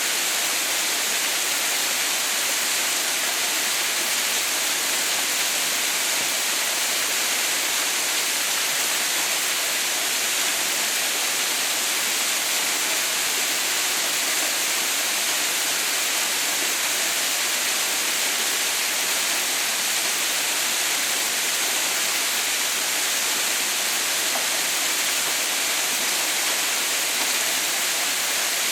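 Steady, unchanging rush of water falling at Mother's White Waterfall (Haha no Shirataki), a waterfall frozen into an icefall: an even hiss weighted toward the high end.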